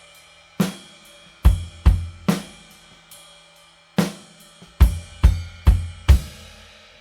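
Rock drum kit played in spaced accents: about nine hits in two clusters, each with a crash cymbal ringing out after it. A low bass note sustains under some of the hits.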